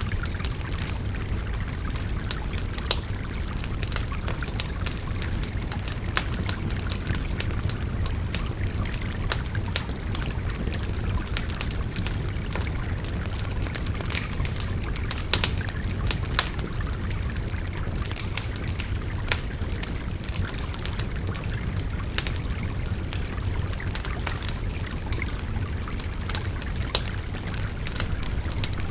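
Wood fire crackling, with frequent sharp pops scattered irregularly and a few louder snaps, over the steady rushing flow of a babbling river.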